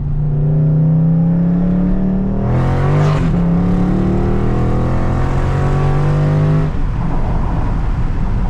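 2019 Dodge Charger Scat Pack's 6.4-litre 392 Hemi V8, run through catless mid-pipes, accelerating hard. The engine note climbs, drops with an upshift about three seconds in, and climbs again. It backs off to a rougher, lower sound near the end.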